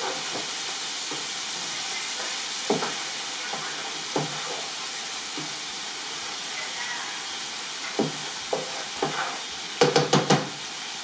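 Chicken sizzling in oil on a tawa over a high gas flame, with a spatula stirring and knocking against the pan every second or two, then a quick run of about five knocks near the end.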